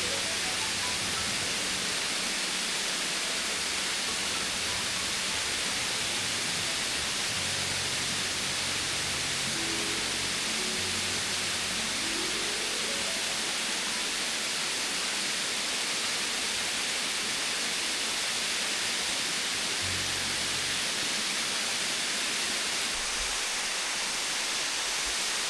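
A waterfall pouring: a steady, loud hiss of falling water, with soft background music faintly underneath in places.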